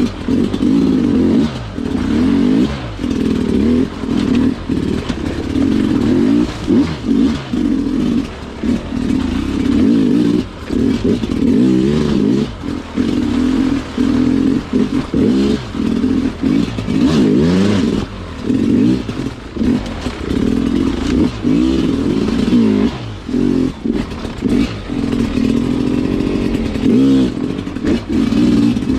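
Sherco two-stroke dirt bike engine pulled through technical terrain, its pitch rising and falling constantly under short bursts of throttle with frequent brief let-offs.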